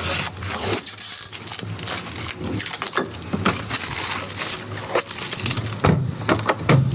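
Irregular crackling, scraping and scattered sharp knocks of hand work on rusted car bodywork, with no power tool running.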